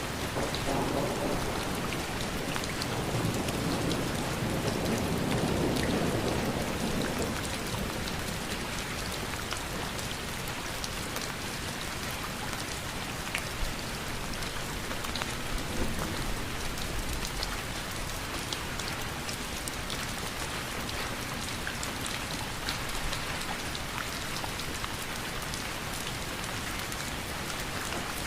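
Steady rain falling, with many fine individual drop taps. A low rumble swells over the first several seconds and then fades.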